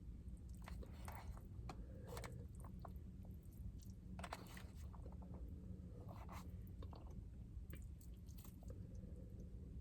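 Close-miked chewing of rice, teriyaki chicken and cooked greens, with irregular wet mouth clicks and smacks over a steady low hum.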